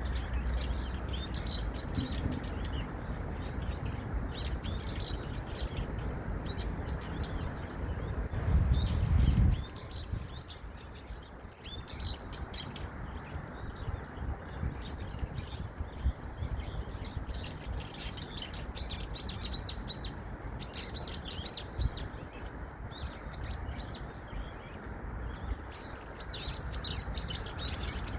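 Small songbirds chirping, with many short high notes and a quick run of repeated notes near the middle. Under the birds is a low rumble, loudest just before the middle and dropping off after it.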